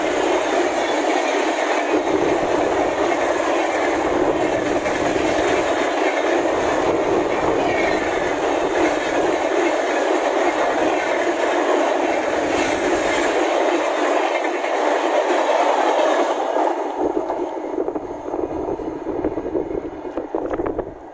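Passenger coaches of an express train rolling past close by at speed: a steady rush of wheel and rail noise with clickety-clack from the wheels on the rail joints. It fades away over the last few seconds as the train moves off.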